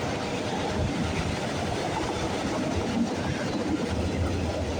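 Freight cars of a fast-moving freight train rolling past close by: a steady rumble of steel wheels on the rails.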